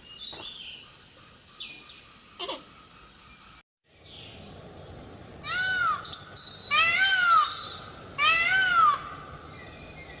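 Faint chirping, then after a brief break an animal calls three times, each call a short cry that rises and falls in pitch.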